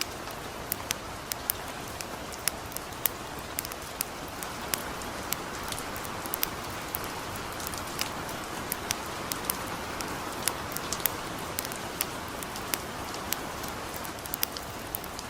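Steady light rain hissing, with a campfire crackling over it in irregular sharp pops, a couple a second.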